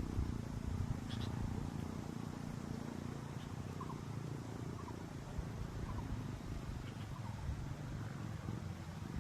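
Wind buffeting the microphone with a steady low rumble, with a few faint short bird chirps over it.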